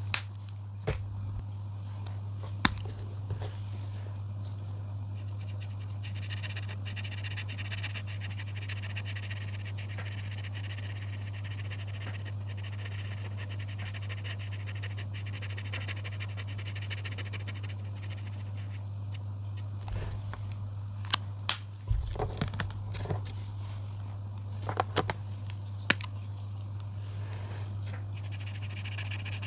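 Sharp taps and clicks of colouring pens or markers being handled and set down, scattered and clustered about two-thirds of the way in. Behind them runs a steady low hum and a background frog chorus that fades in after several seconds, drops out, and returns near the end.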